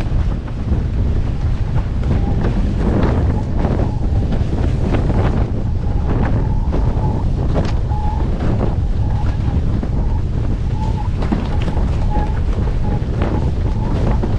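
Strong wind buffeting the microphone, a loud rumble that gusts unevenly. A faint thin whistle comes and goes from about halfway through.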